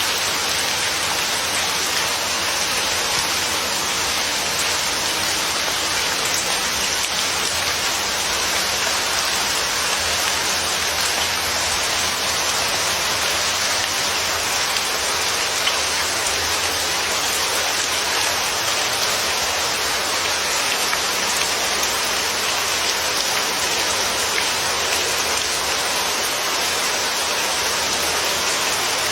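Steady rain falling and pattering on a surface, an even hiss of many drops without a break.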